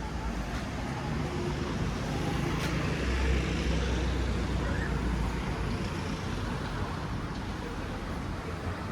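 Street traffic: a steady low rumble of road vehicles, swelling a little about three seconds in as one passes close.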